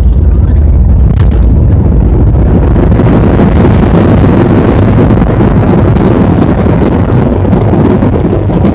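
Loud roar of an airliner landing, heard from inside the cabin: engine noise and rushing air, deep at first and turning harsher and fuller about three seconds in, then holding steady.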